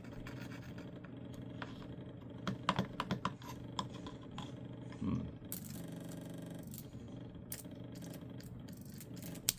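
Microwave-oven-transformer high-voltage rig humming steadily while its arc crackles and snaps irregularly, burning a fractal (Lichtenberg) figure. A denser burst of buzzing crackle comes about six seconds in, and a sharp snap near the end.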